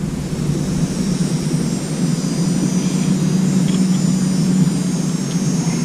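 Steady engine drone, a low hum with a faint high whine over it.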